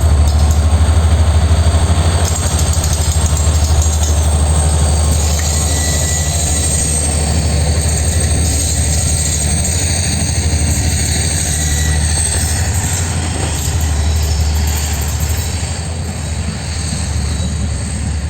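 Moving passenger train: a loud, steady low rumble of running and wheel-on-rail noise, with a faint high squeal about six seconds in.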